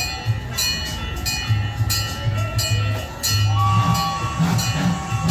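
Gas-powered replica steam train's engine running with rhythmic low chugging, mixed with music. About three and a half seconds in, a steady higher tone joins.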